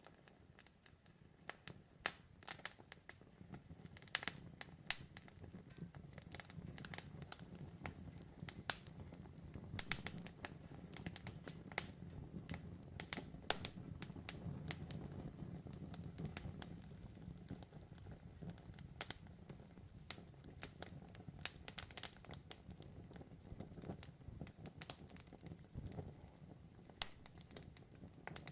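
Campfire crackling, with irregular sharp pops and snaps from the burning wood over a steady low rumble of the flames.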